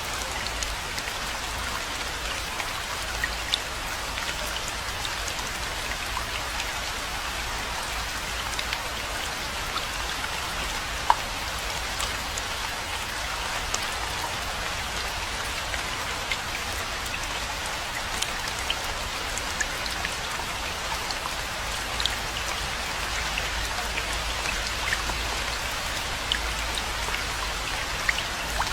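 Steady rainfall with many individual drops pattering and clicking, one sharper drop about eleven seconds in.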